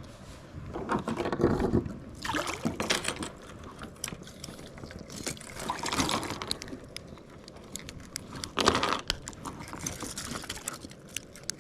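Irregular water splashes and drips with handling knocks around a kayak, coming in short bursts several times.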